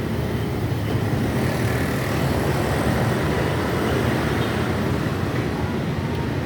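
Steady rumble of road traffic, even and continuous with no distinct events.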